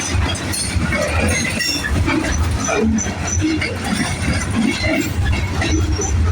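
Freight train rolling past on the rails: a steady, loud rumble from the moving train.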